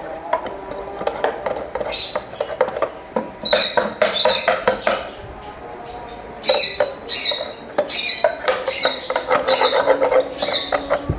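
Pet birds chirping in quick runs of short high calls, over background music, with scattered clicks and scraping from wooden nest boxes being cleaned.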